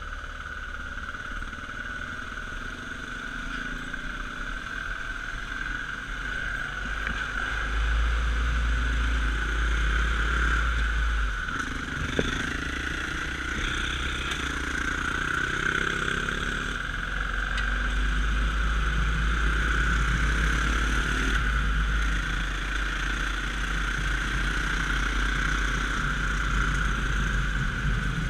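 Dirt bike engine running while being ridden, its pitch shifting up and down, over a steady low rumble that grows louder about eight seconds in.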